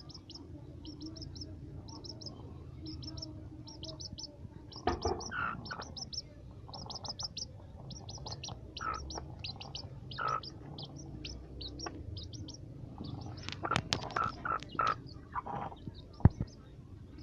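A chick peeping: quick runs of short high chirps, with a few louder, lower calls now and then, and a sharp knock near the end.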